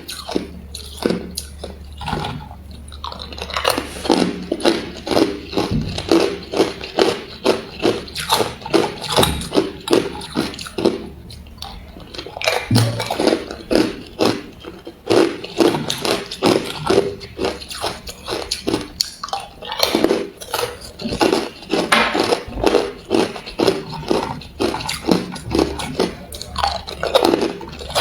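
A person biting and chewing ice close up: a steady run of loud, sharp crunches, several a second, with two brief lulls, about two seconds in and again around eleven seconds in.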